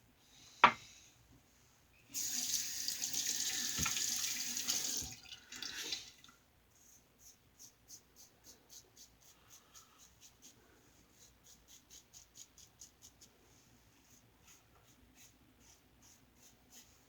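A sharp click, then a sink tap runs for about three seconds and shuts off, with a short splash just after. A long run of faint quick ticks, about two to three a second, follows.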